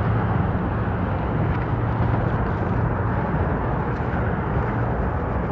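A steady low engine hum over an even background hiss, the hum ending near the end.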